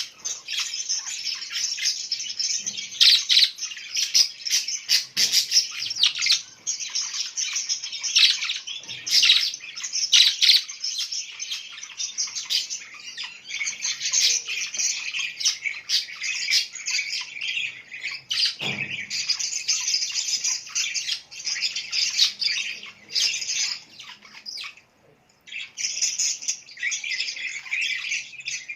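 Many small birds chirping and twittering at once, a dense run of rapid, high calls that overlaps almost without a break. There is a brief lull about 25 seconds in, and a single soft low thump shortly before 19 seconds.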